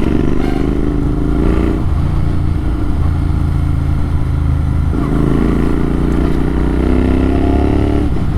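Motorcycle running on an AEW TE102 aftermarket exhaust with its dB killer removed, accelerating under load: the pitch climbs, drops about two seconds in as it shifts up, holds steady, then climbs again and drops once more near the end.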